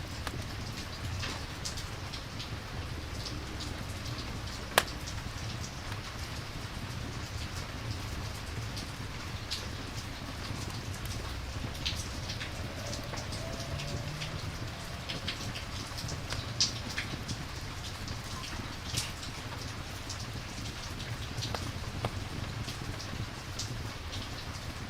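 Steady rain ambience with scattered sharp ticks and pops, one loud snap about five seconds in.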